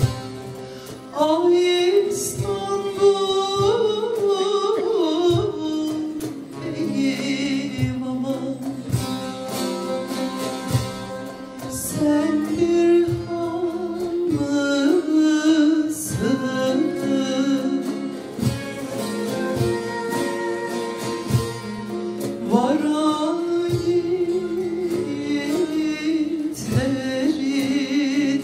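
Turkish folk song (türkü) performed live by a folk music ensemble: a voice sings an ornamented melody with sliding pitch, entering about a second in, over plucked strings and regular drum strokes.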